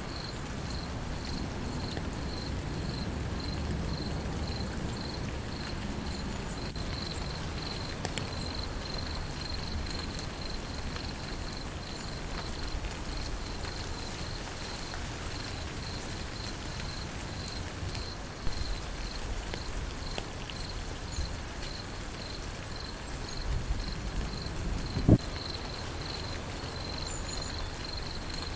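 Steady rain, with an insect, likely a cricket, chirping in a fast even pulse high above it. A low rumble comes and goes in the first few seconds, and a single sharp thump about 25 seconds in is the loudest sound.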